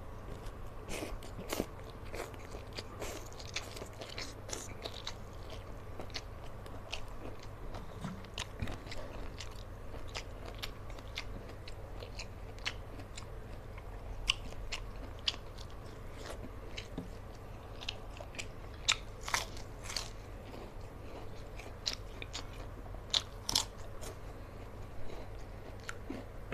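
A person chewing and crunching through a hand-eaten meal of rice, stir-fried water spinach and fried fish, with many short sharp crunches scattered through it. A steady low hum runs underneath.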